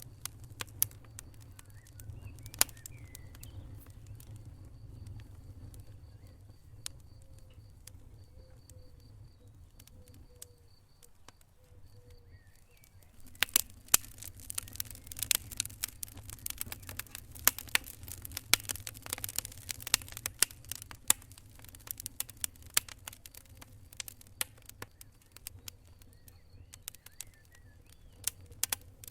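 Wood fire crackling in a fireplace: scattered sharp pops at first, then a busy run of crackles and pops from about halfway through, over a low steady rumble.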